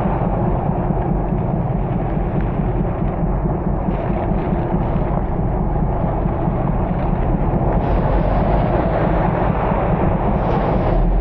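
Steady low rumble of a vehicle moving through heavy rain, with road and rain noise.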